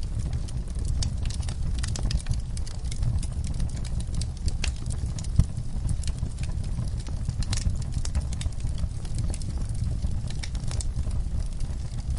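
Wood fire burning in a fireplace: a steady low rumble of the flames with irregular crackles and pops, one sharper pop about five and a half seconds in.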